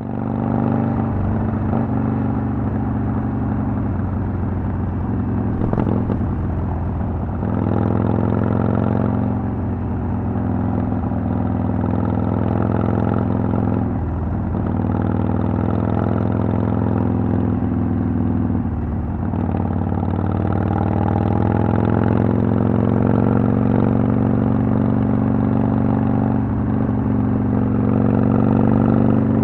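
Harley-Davidson Sportster XL883L's air-cooled 883 cc V-twin running through Vance & Hines Twin Slash exhausts. The engine pitch climbs under throttle and drops back several times.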